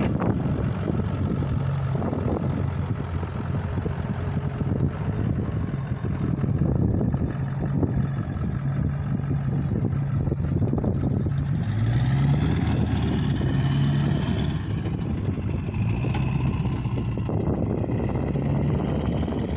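Engine of a 2000 Ford F-350 service truck running steadily, with a short rise in engine speed about twelve seconds in.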